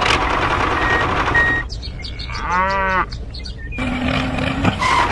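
A short mooing animal call about halfway through, over a steady noisy background, followed by a brief steady hum near the end.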